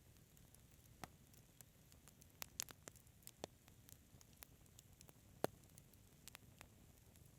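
Wood fire crackling softly, with scattered irregular snaps and pops: a cluster about two and a half seconds in and the loudest pop about five and a half seconds in.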